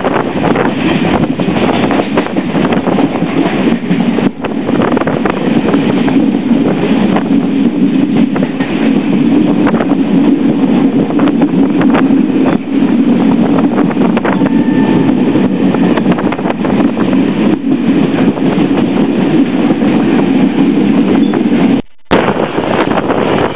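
Passenger train running along the track, heard from inside the carriage: a steady, loud rumble with scattered irregular clicks from the wheels. The sound drops out for a moment near the end.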